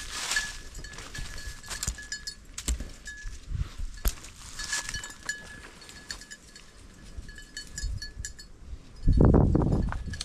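Small bell on a hunting dog's collar tinkling in short repeated rings as the dog works through cover, with rustling and footsteps in the brush. A loud low rumble on the microphone lasts about a second, starting about nine seconds in.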